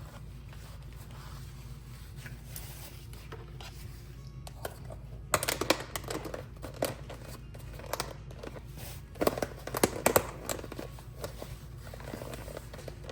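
Handling sounds as a freezer bowl is wiped round and sealed: rustling and several sharp clicks, in a cluster about five seconds in and another about nine to ten seconds in, over a low steady hum.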